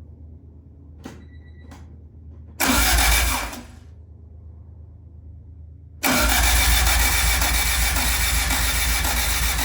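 Starter cranking a freshly swapped Honda B-series engine with the distributor disconnected, so it turns over without firing to build oil pressure: a short crank of about a second, then a longer steady crank of several seconds with a regular beat. Two faint short beeps come about a second in.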